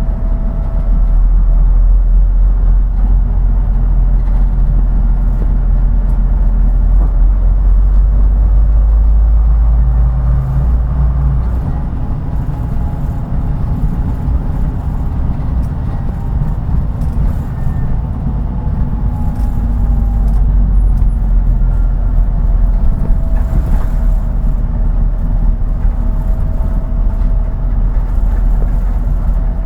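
Route bus's diesel engine and drivetrain running on the road: a heavy low rumble with faint whines that rise and fall as it pulls and eases off. The deepest rumble drops away about twelve seconds in and builds again later.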